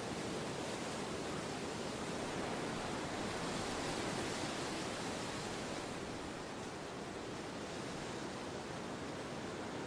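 Wind blowing steadily as an even rushing noise, swelling a little about four seconds in and then easing slightly.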